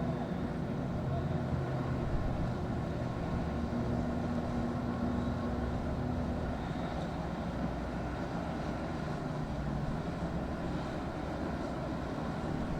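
Boat engines running steadily, with a steady hum that fades out about halfway through.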